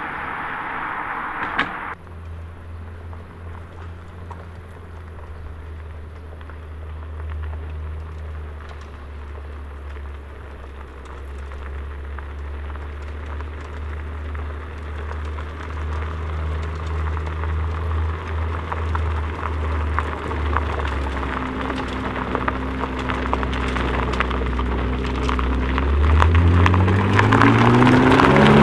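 Car engine running with a low, steady rumble that slowly grows louder, with a crackling noise over it. Near the end it revs up, rising quickly in pitch as the car accelerates.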